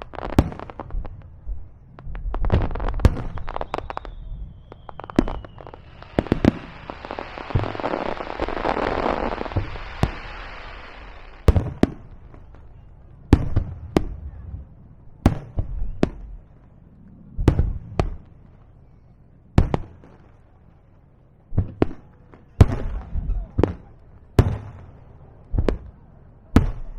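Aerial fireworks bursting over the sea, with sharp reports about every second or two. There is a brief falling whistle a few seconds in, then a hiss lasting several seconds in the middle.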